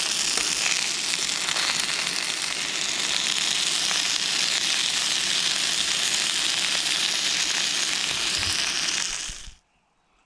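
Burger, sausages and onions sizzling and crackling as they fry in a camp pan over a stove flame. The sizzle is steady and loud, then cuts off suddenly near the end.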